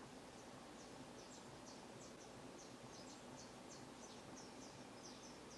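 Near silence: a faint steady hiss with soft, high, irregular chirps of small birds throughout.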